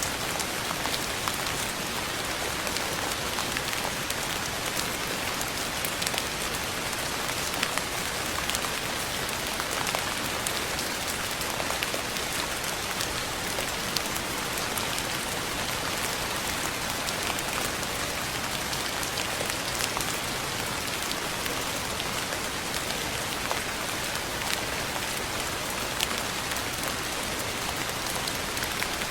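Steady rain falling on a surface, a constant hiss with many separate drops ticking sharply through it.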